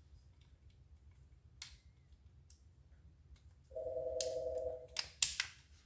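A steady electric buzz lasting about a second, then a few sharp clicks of small plastic drive parts being handled and fitted.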